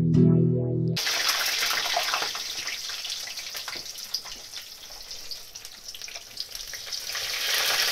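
Breaded food deep-frying in hot oil in a frying pan: a steady sizzle full of small crackles and pops, a little louder near the end. An electric-guitar intro jingle cuts off about a second in.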